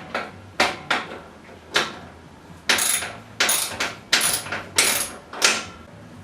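Stainless-steel chimney pipe fittings clanking and rattling as a start adapter is worked down onto the single-wall flue pipe. About eight sharp metallic knocks come in a string, and those from about halfway through are louder and longer.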